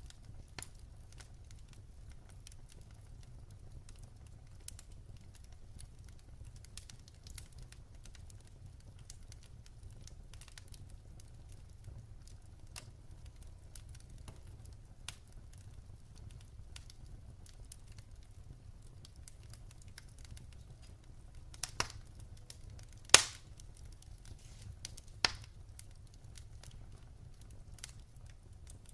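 Wood fire burning in a fireplace: a steady low rumble with scattered crackles, and a few louder pops about two-thirds of the way through, one much louder than the rest.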